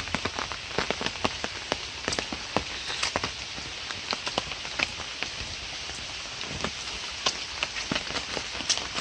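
Steady rain falling, a hiss with many sharp, irregular taps of close raindrops.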